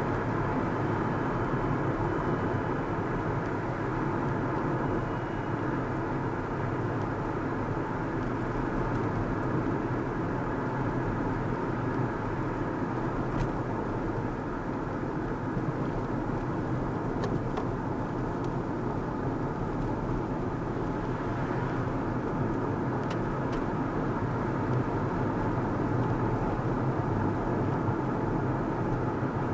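Car driving at a steady speed: even road noise of tyres and engine hum, with no change in pace.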